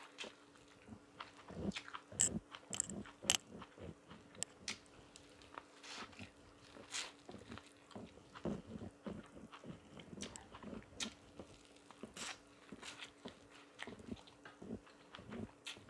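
Corn on the cob being bitten and chewed close to a clip-on microphone: irregular crunches and clicks as kernels are gnawed off the cob, over a faint steady hum.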